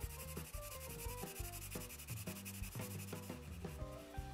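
Coloured pencil rubbing back and forth on paper in quick shading strokes, over soft background music.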